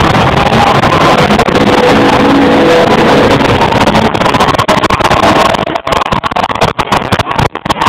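Several stunt cars' engines running and revving as the cars drift around an arena, loud enough to overload the recording. From about six seconds in the sound breaks up with repeated short dropouts.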